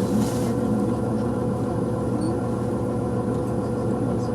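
Tour vehicle's engine idling while stopped, a steady low hum heard from inside the vehicle, with a brief hiss at the start.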